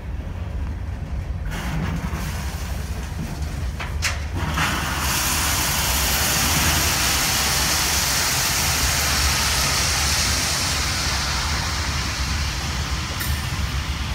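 Herzog ballast train rolling slowly past, with a steady low rumble. About four seconds in, after a couple of sharp clicks, a loud, even rushing hiss starts and keeps on until near the end.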